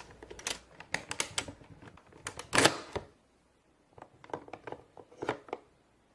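Plastic toy parts clicking and snapping as a Transformers Play-Doh playset's robot figure is handled and transformed: a run of clicks, a short pause, then another cluster of clicks.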